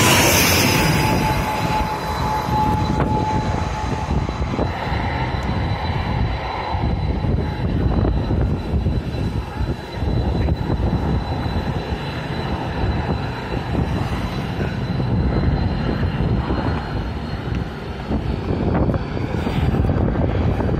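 Jet airliner's engines passing low overhead: a loud, continuous rumble with a high whine that falls slightly in pitch over the first few seconds, then holds steady.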